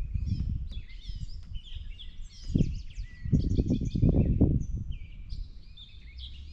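Several birds chirping and trilling in quick, overlapping calls, over low rumbling bursts that come and go and are loudest about three to four and a half seconds in.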